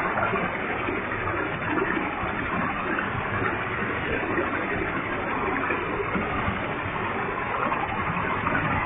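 Waterfall with a heavy flow of water, falling and splashing in a steady, unbroken rush.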